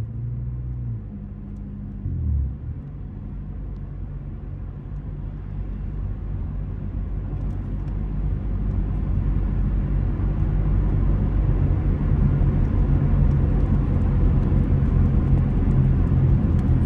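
Straight-piped 2.4-litre four-cylinder engine of a 2004 Honda Accord under way: a brief rev about two seconds in, then a low exhaust drone that grows louder over about ten seconds as the car picks up speed, and holds steady.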